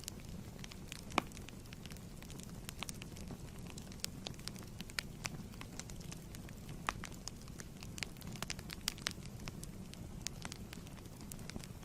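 Wood fire crackling in a fireplace: a steady low rumble of flame with irregular sharp pops and snaps, the loudest about a second in.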